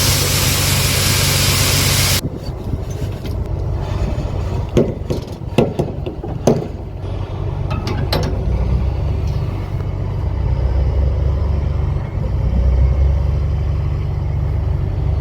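Heavy diesel engine running with a steady low rumble, with a few sharp clicks and knocks partway through. It opens with a loud even rushing noise that cuts off suddenly about two seconds in.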